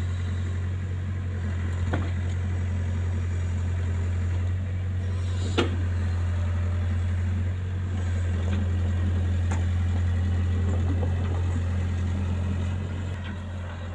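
A vehicle's engine running steadily, giving an even low drone, with a couple of brief clicks about two and five and a half seconds in.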